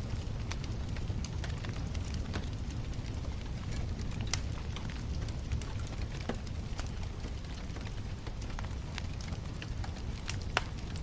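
Wood bonfire crackling, with scattered sharp pops and snaps over a steady low rumble of the burning fire; the loudest pops come about four seconds in and near the end.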